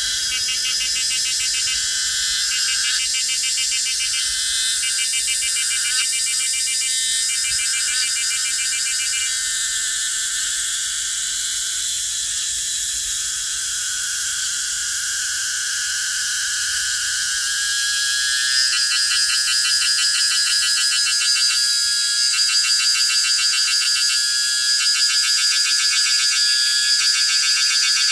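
A chorus of cicadas singing, several high, pulsing buzzes overlapping; a louder pulsing song joins about eighteen seconds in.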